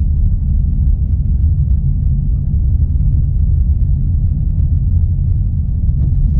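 Steady low rumble of a car on the move, engine and road noise with faint ticks over it.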